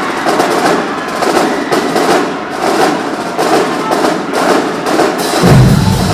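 Marching band drumline playing fast, dense percussion, with a strong low band sound of bass drums and low instruments coming in about five and a half seconds in.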